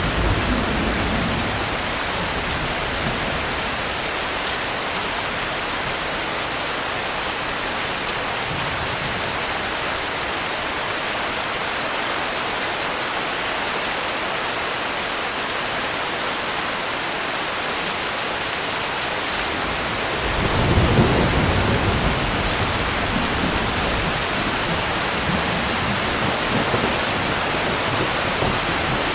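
Steady rain, with distant thunder: a low rumble dies away in the first couple of seconds, and another rolls in about two-thirds of the way through and keeps grumbling.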